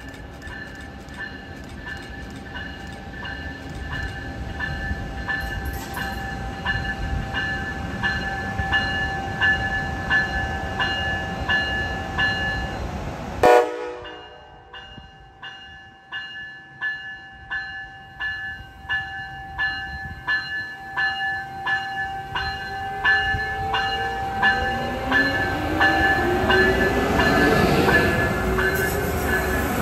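Amtrak passenger train hauled by a Siemens ACS-64 electric locomotive pulling into the station, with a bell ringing steadily about twice a second. Whining tones rise in pitch and the noise builds near the end as the locomotive comes alongside.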